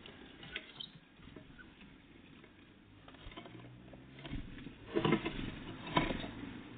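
Great tits and blue tits feeding: scattered light pecking taps and patter, with two louder knocks about five and six seconds in.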